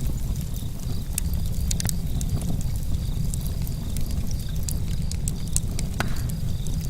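Campfire burning, with frequent sharp crackles and pops of the wood over a steady low rumble; one louder pop about six seconds in.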